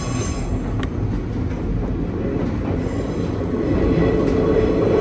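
Running noise of a Nankai 2200-series electric train heard from inside the passenger car: a steady rumble of wheels on rail with thin high squeals from the wheels that fade early and build back up near the end, and a single sharp click about a second in.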